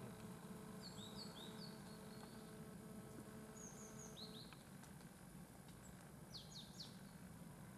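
Near silence in a forest with a few faint, short, high bird chirps, in small groups about a second in, around four seconds and near seven seconds.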